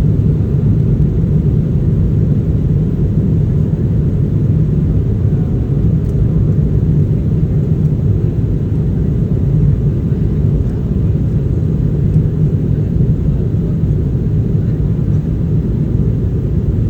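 Airliner cabin noise: the jet's engines and airflow heard from inside the cabin as a steady, loud, deep rumble that does not rise or fall.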